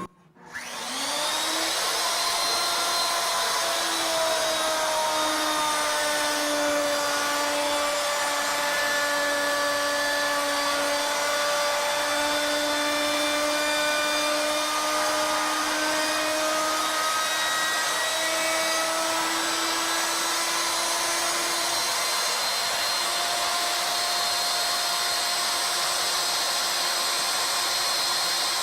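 CNC router with a 2-inch barley twist cutter spinning up about half a second in, its pitch rising, then running steadily, its tone wavering slightly as it works the wooden spiral.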